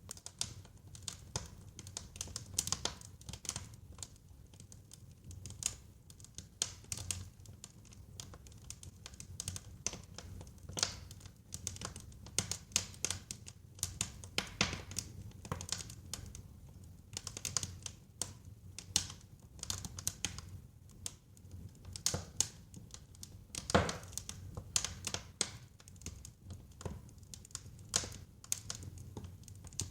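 Wood fire burning in a fireplace: irregular crackles and small pops over a steady low rumble of the flames, with one louder pop about 24 seconds in.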